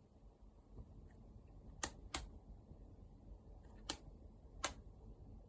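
Four short, sharp clicks, two close together about two seconds in and two more near the end, over a faint low background hum.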